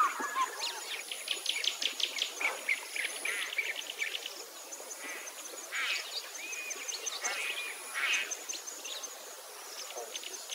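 Several small birds chirping and trilling at once in quick, varied calls, over a thin high steady whine that comes and goes.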